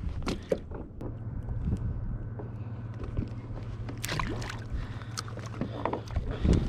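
Water lapping and splashing against a plastic kayak hull, with scattered knocks and clicks of fishing gear being handled. A steady low hum comes in about a second in.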